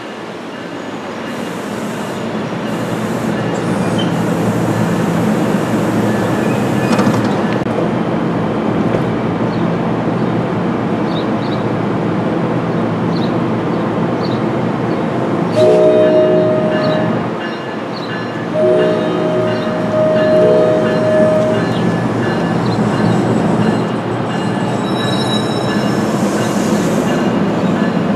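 NJ Transit multilevel commuter train rolling past, its steady rumble building over the first few seconds. A train horn sounds twice in the middle, a short blast and then a longer one soon after.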